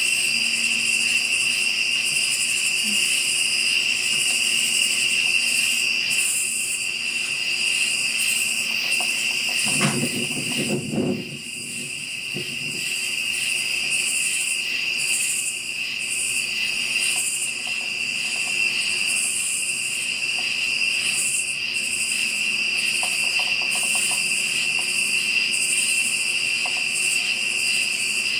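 Crickets and other night insects chirring steadily in a dense chorus, with a brief low rustle about ten seconds in.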